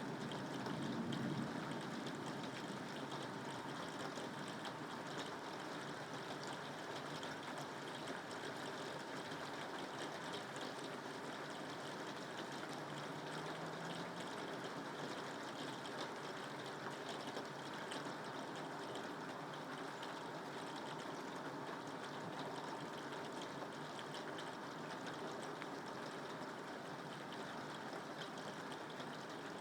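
Steady rain falling, an even hiss of water with no pauses.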